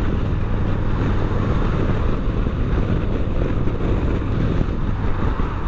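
Yamaha Bolt's V-twin engine running steadily at cruising speed, mixed with wind rushing over the microphone.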